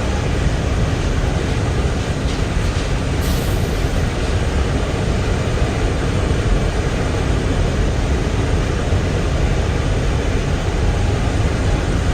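Norfolk Southern train running past, a loud steady rumble of rolling equipment, with a brief high-pitched sound about three seconds in.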